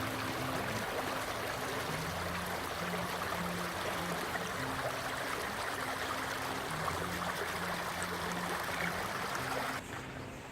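Stream water rushing in a steady hiss, cutting off sharply near the end.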